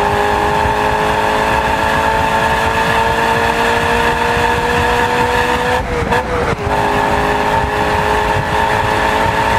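High-revving car engine at full throttle, its pitch climbing slowly through a long gear. It makes one quick upshift about six seconds in, then pulls again from lower revs.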